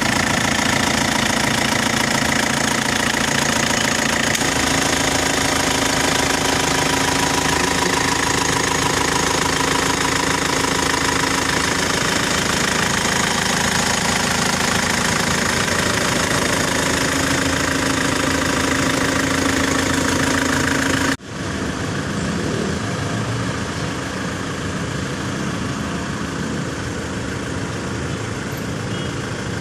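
Nissan Terrano turbo engine idling steadily. About 21 seconds in, the sound cuts abruptly to a duller, slightly quieter run of the same engine.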